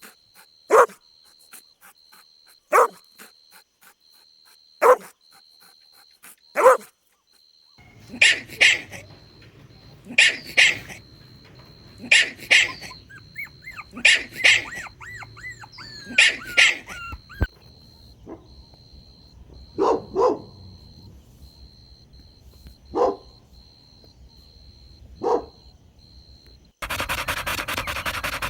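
Dog barking: single barks about every two seconds, then sharper, higher barks in quick pairs, then a few lower single barks spaced a few seconds apart.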